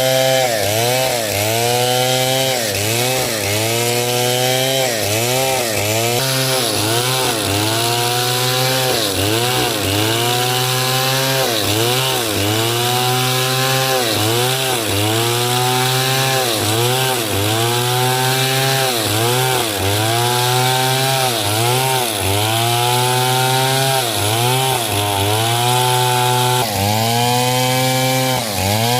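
Stihl 070 two-stroke chainsaw cutting hard coconut wood under load, its engine pitch dipping and recovering about once a second as the chain bites into the wood.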